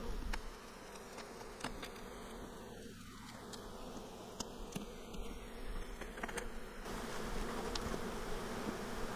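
Honeybees buzzing steadily around an opened hive, with a few faint clicks over the hum.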